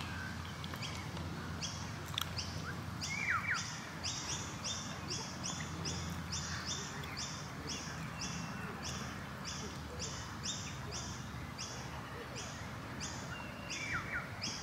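Birds calling: a high chirp repeated evenly about twice a second, with a short falling whistle about three seconds in and another near the end.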